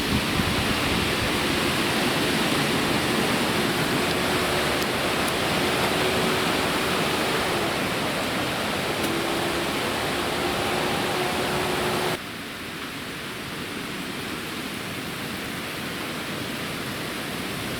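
Hurricane wind and rain making a steady rushing noise, which drops abruptly to a lower level about twelve seconds in. A faint steady tone runs through the middle stretch.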